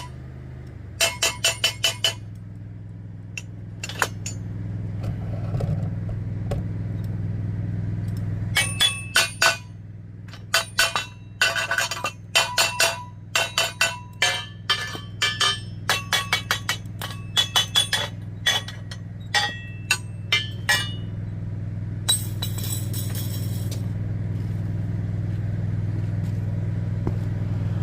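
An engine running steadily under repeated sharp, ringing metal clanks, several a second in runs of about half a dozen, with short gaps between the runs.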